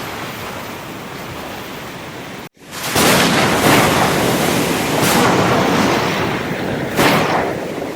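Ocean surf washing steadily. About two and a half seconds in it cuts out for an instant, then comes back louder, with waves breaking several times.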